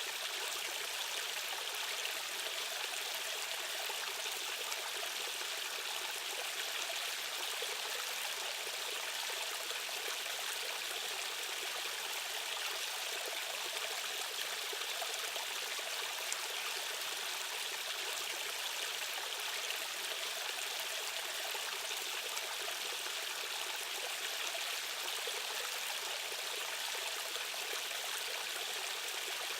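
Fast-flowing stream water rushing steadily over rocks, a continuous even hiss without a deep rumble.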